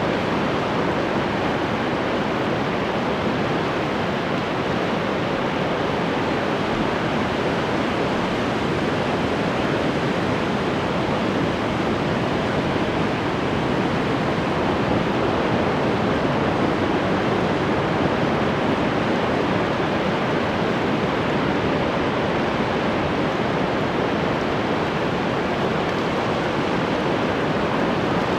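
Ocean surf washing in continuously, a steady, even wash of noise.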